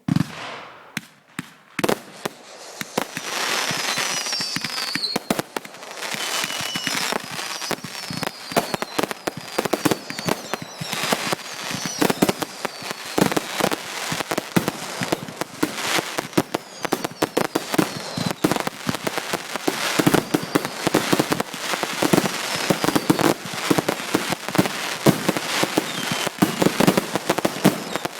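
A fireworks finale going off: a dense, rapid crackle of sharp bangs and pops, with several whistles that fall in pitch mixed in during the first half. It starts abruptly and stays busy throughout.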